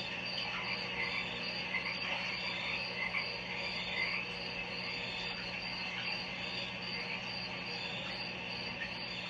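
A continuous chorus of chirping animal calls, with a high trill pulsing about twice a second, over a steady low hum.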